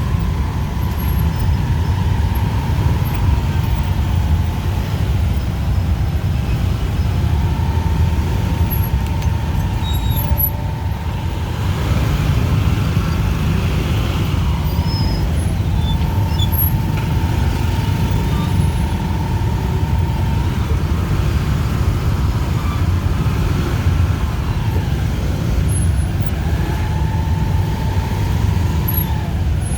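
Busy city street traffic of motorbikes, cars and tuk-tuks: a continuous low rumble of engines and tyres, with a thin high whine that comes and goes every several seconds.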